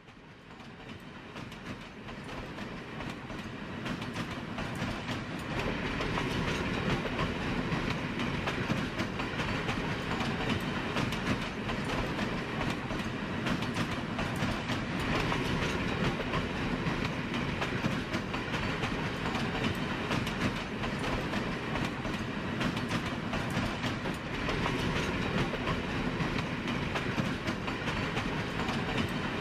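Train running along the track. It fades in over the first few seconds, then runs steadily with many rapid clicks through the noise.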